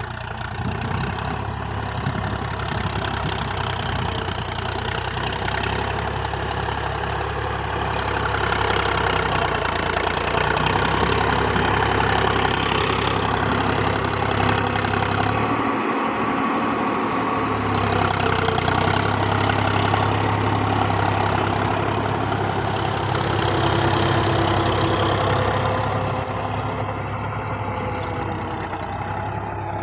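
Preet tractor's diesel engine running steadily, growing louder for a few seconds twice.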